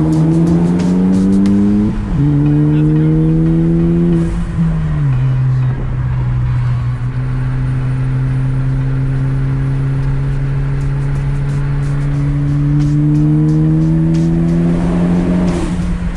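A car engine under hard acceleration, its pitch climbing and dropping sharply at two upshifts in the first five seconds, then holding and rising slowly through a long pull in a higher gear.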